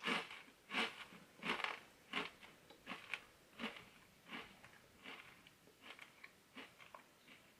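Person chewing a Takis rolled corn tortilla chip with the mouth closed: steady crunches about every two-thirds of a second, growing fainter.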